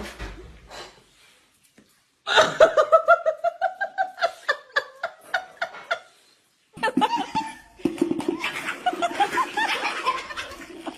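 Person laughing in quick repeated bursts, starting a couple of seconds in and breaking off briefly, then laughing again from about seven seconds in.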